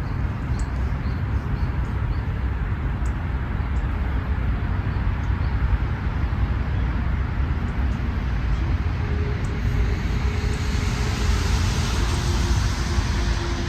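Outdoor ambience of road traffic: a steady low rumble, with a hiss and a faint steady hum swelling over the last few seconds as a vehicle passes. A few faint short high chirps sound in the first few seconds.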